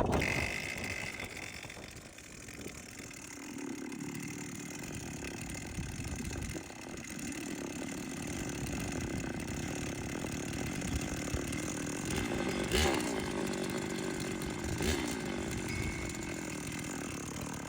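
Two-stroke brushcutter engine running steadily with a dense rattling noise, which the owner takes for a probable piston problem with a broken side. The running dips about two seconds in and picks up again, and two sharp clicks stand out in the last third.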